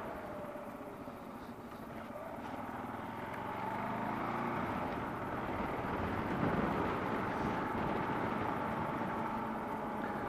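Kawasaki KLR650's single-cylinder engine running under way beneath steady wind and road rush, its note rising about four seconds in.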